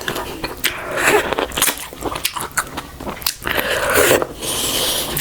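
Close-miked chewing and biting of food, with many quick mouth clicks and smacks.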